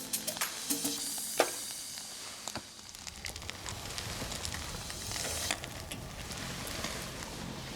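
Cooking over a wood campfire: sharp crackling pops in the first few seconds, then a steady sizzling hiss.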